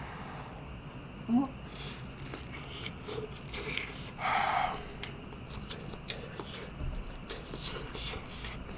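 Close-miked chewing of soft egg-soaked French toast, with small wet mouth clicks. A short hum comes about a second and a half in, and a brief breathy sound a little past the middle.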